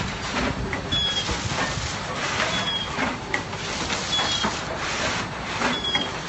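Snack packaging machine running in a steady cycle: a short high chirp about every second and a half over constant mechanical noise and hiss.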